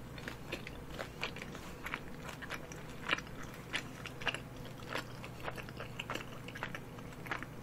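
Close-miked chewing of a mouthful of sotteok-sotteok (skewered sausage and rice cake in a sweet coating): irregular small mouth and food clicks, a few each second, with a louder one about three seconds in.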